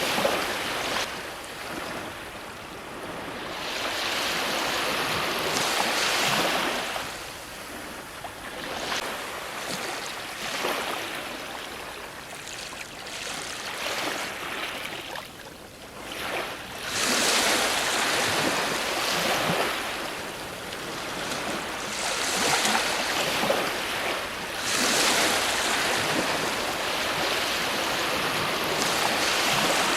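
Ocean waves breaking on a shore, a continuous wash of surf that swells and subsides every few seconds, with bigger breakers about a third and two-thirds of the way through.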